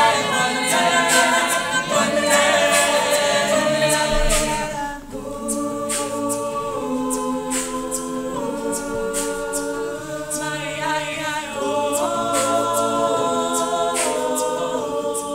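Mixed-voice a cappella group singing in close harmony, with a vocal-percussion beat ticking about twice a second. The first five seconds are louder and busier; then the group holds softer sustained chords, changing every second or two, as the song closes.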